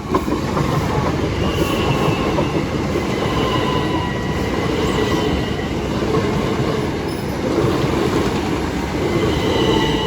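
Southeastern Class 375 Electrostar electric multiple unit running past at close range: a loud, steady rumble of wheels on rail, with thin high-pitched tones ringing over it.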